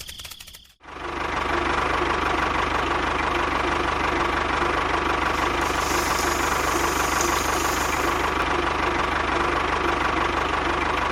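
A small engine starts sounding abruptly about a second in, then runs steadily with a rattling knock.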